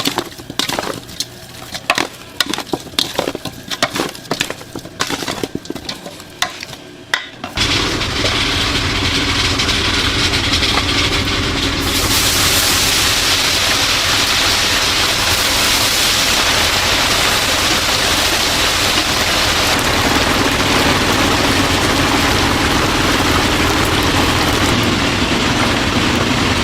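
Sharp clatter and knocks of handling for the first several seconds. About seven seconds in, a steady sizzle of chicken deep-frying in hot oil starts suddenly and grows louder a few seconds later.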